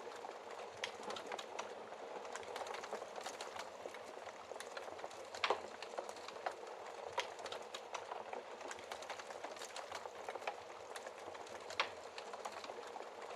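Wood fire crackling steadily, with a constant run of small ticks and a few louder sharp pops of burning wood, the loudest about five and a half seconds in.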